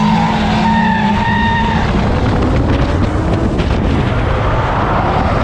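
Drift car's engine held at high, steady revs while the tyres slide and skid; the engine's tone stands out for about the first two seconds before a loud, even rush of tyre noise takes over.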